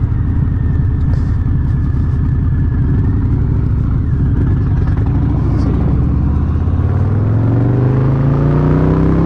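Harley-Davidson Low Rider S V-twin engine running low and steady at slow speed, then revving up as the bike accelerates, its pitch rising steadily over the last third.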